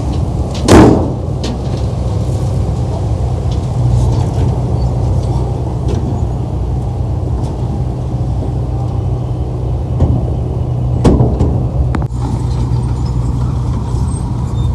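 Heavy diesel earthmoving machinery running steadily, a deep engine drone, with a loud sharp burst about a second in and another about eleven seconds in, and a few light clanks.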